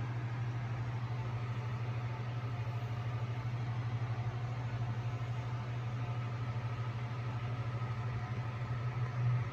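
A cat purring steadily, a low, rapidly pulsing rumble.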